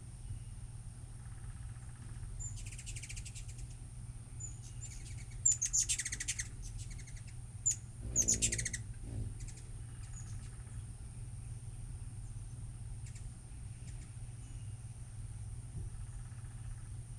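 Hummingbirds chittering: three short runs of rapid, very high chips about 3, 6 and 8 seconds in, the middle and last the loudest, over a steady low hum.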